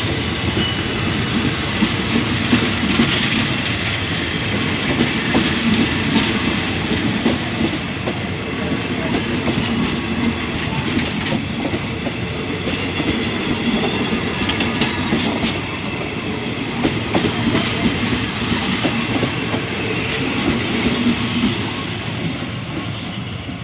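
Passenger train coaches rolling past on steel wheels, a steady rumble with rapid clickety-clack over the rail joints, easing slightly near the end.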